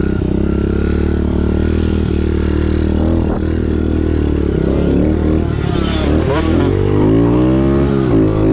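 Dirt bike engine running steadily, then revved up and down twice in the last few seconds.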